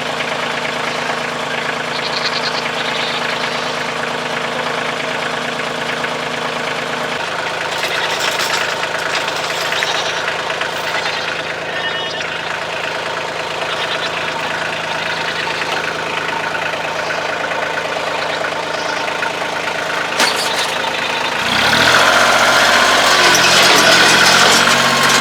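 Kioti CK2610 compact tractor's diesel engine running steadily. Its note changes about seven seconds in, and it grows louder near the end as it is revved up.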